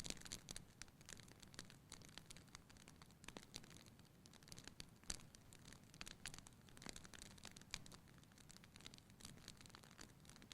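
Wood fire in a fireplace crackling quietly: irregular sharp pops and snaps, a few a second, over a faint low rumble of the burning.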